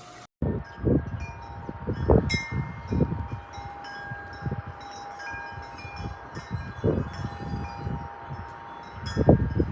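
Wind chimes ringing irregularly, with scattered overlapping metallic tones, over gusty low rumbles of wind on the microphone.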